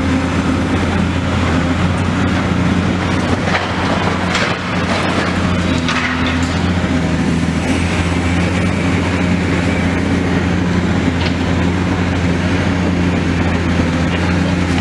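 Demolition excavator's diesel engine running steadily, with a few sharp cracks and knocks from the demolition about a third of the way in.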